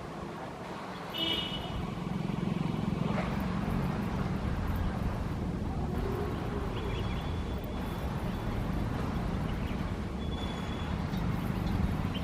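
Passenger train running past with a steady low rumble that grows louder about a second in.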